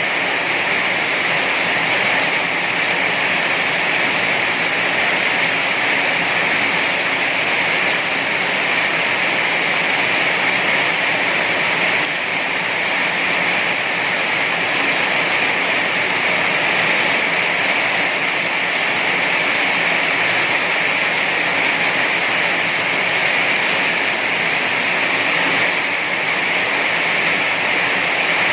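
Heavy rain falling steadily, an even hiss with no separate drops or thunder standing out.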